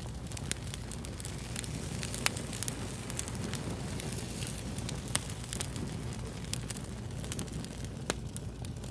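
Fire crackling: a steady low rumble and hiss with frequent irregular snaps and pops, a few of them sharper and louder than the rest.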